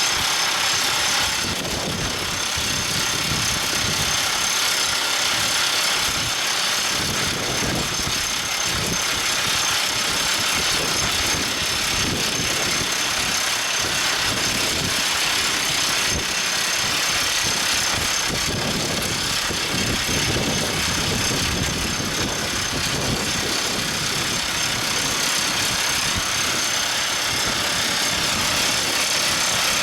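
Everdigm ECD45E top hammer drill rig running steadily: engine noise with a continuous mechanical rattle and a thin high whine.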